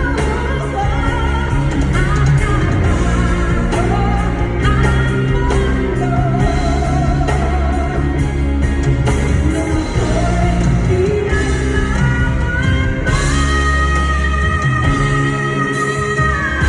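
Live music: a female singer with a backing band, recorded on a phone from the audience. Near the end she holds one long note.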